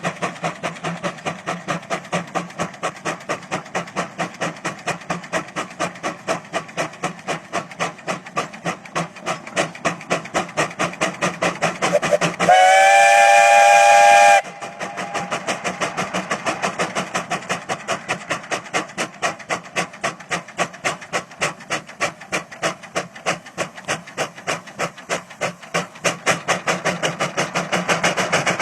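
Steam engine chuffing steadily, a few exhaust beats a second. About halfway through, its chime whistle blows loudly for about two seconds: a chord of several tones that slides up slightly as it opens.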